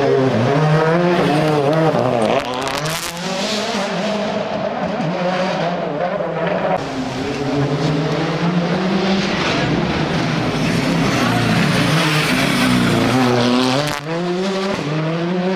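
Rally car running flat out on a special stage, its engine revving hard and falling back again and again through gear changes and lifts. A sharp drop in level comes about two and a half seconds in, and a brief dip comes near the end.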